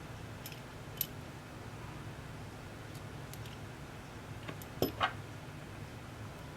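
Scattered small clicks and taps of tools and parts being handled in a tablet repair, over a low steady hum. The loudest two clicks come close together about five seconds in.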